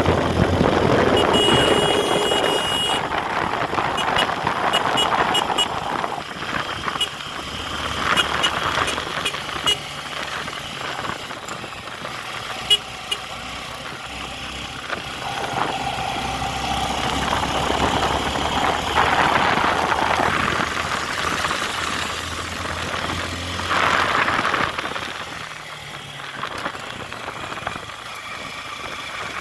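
Motor vehicle engines running, with a steady high beep about one to three seconds in and short high beeps scattered through the first half.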